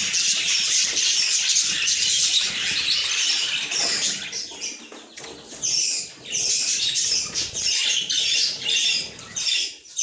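Budgies chirping and chattering in a dense, rapid run of high calls, with brief lulls about five seconds in and near the end.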